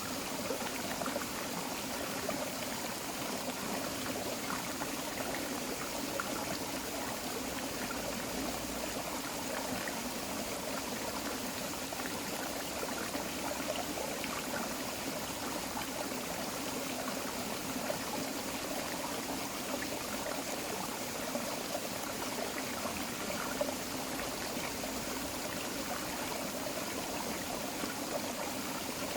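Small tropical forest creek flowing steadily, water trickling and babbling over rocks.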